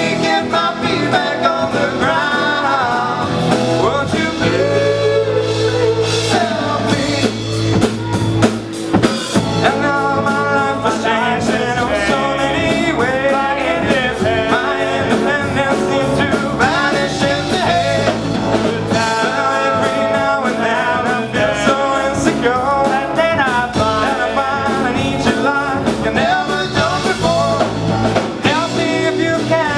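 Live rock band playing through a PA: lead vocals over drum kit, electric guitars and bass guitar, with a steady beat.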